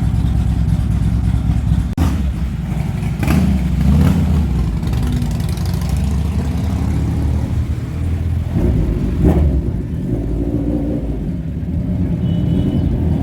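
Superbike engines running loudly at idle, with several short throttle blips revving them up.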